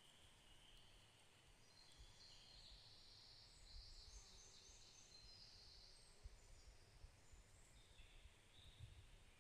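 Faint birdsong in a forest: high chirps and trills from small birds, busiest from about two to six seconds in, over a faint low rumble.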